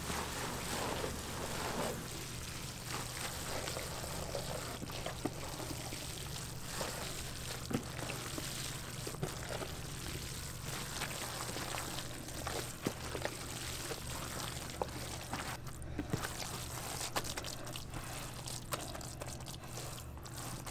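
Liquid pouring steadily, with scattered small clicks and a low steady hum underneath.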